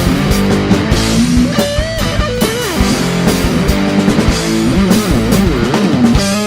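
Rock music, an instrumental passage between sung lines: guitar playing bent, sliding notes over bass and drums.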